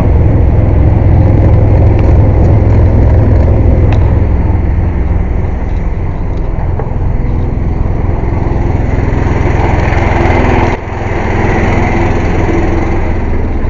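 Engine-driven air compressor running loud and steady, with a brief dip in level about eleven seconds in.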